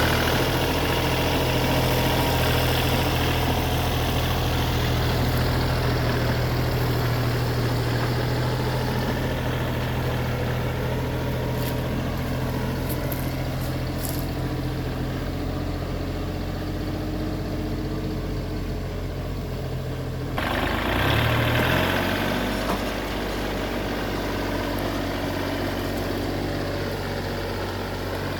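Engine of a heavy work machine running steadily with a low, even note. About twenty seconds in it suddenly gets louder and harsher and the pitch dips briefly, as if taking a load, before settling back to a steady run.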